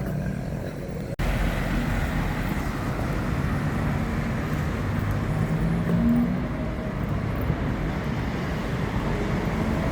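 City street traffic: a steady rumble of passing cars and buses, with an abrupt break about a second in, after which it comes back a little louder.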